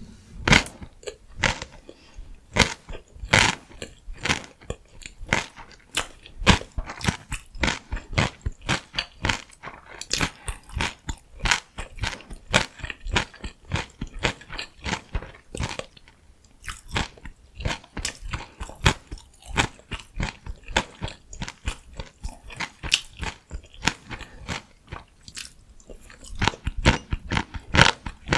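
Close-miked chewing and crunching of crisp vegetables in a rice-and-cabbage wrap meal: a dense run of crackly bites with a couple of brief pauses.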